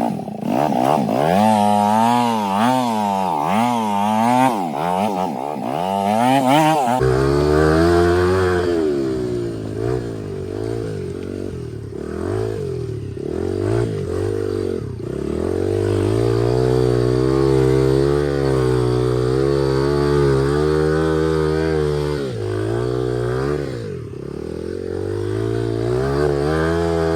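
2003 Honda XR80's small four-stroke single-cylinder dirt-bike engine, exhaust baffle removed, revving up and down again and again as it is ridden over slippery ground. The revs sit lower from about seven seconds in.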